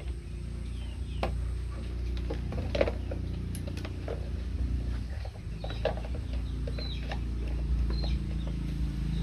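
Scattered light clicks and knocks of hand work on parts, over a steady low hum, with a few short high chirps.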